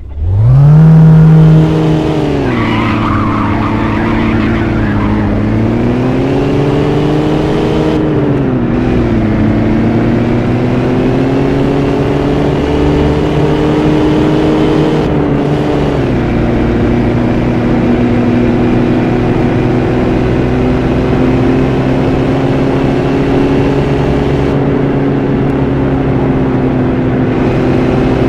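BMW E34 with a swapped-in E39 M5 S62 4.9-litre V8 starting up: the revs flare right after it catches, then settle to an idle that dips and rises a few times before holding steady.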